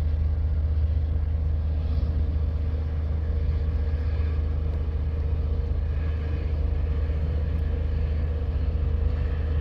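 Diesel engine of the river pusher tug RT-178 running steadily: a deep, even rumble with a constant hum above it.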